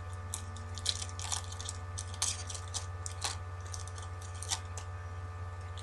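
Foil trading-card pack wrappers being torn open and crinkled by hand: irregular crackling rustles and small tearing clicks, over a steady electrical hum.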